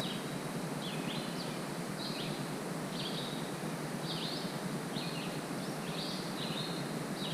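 A bird calls over and over, with a short chirp about every half-second, over a steady outdoor hiss.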